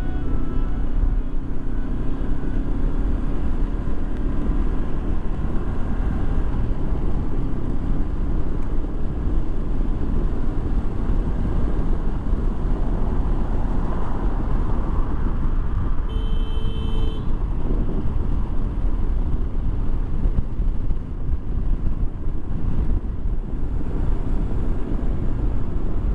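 Motorcycle on the move recorded on a mounted GoPro: steady engine drone mixed with wind rush. A short beep about a second long sounds some sixteen seconds in.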